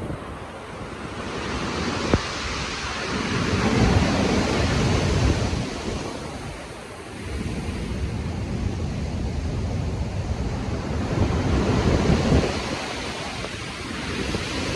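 Stormy sea surf: heavy waves surge in and wash back under a steady wind, with wind buffeting the microphone. One big swell builds to a peak about four seconds in, falls away to a lull, then a second long swell runs up to a peak near the end.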